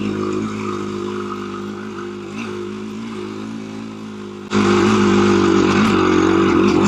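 KTM 350 EXC-F single-cylinder four-stroke dirt bike engine running at low, steady revs, easing off slightly, then suddenly louder about four and a half seconds in.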